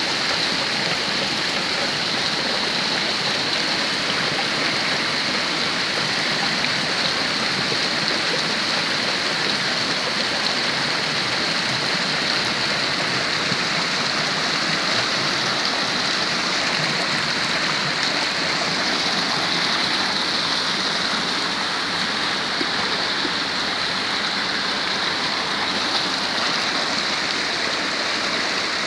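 Heavy rain falling steadily, mixed with the rush of muddy runoff water running down a dirt lane.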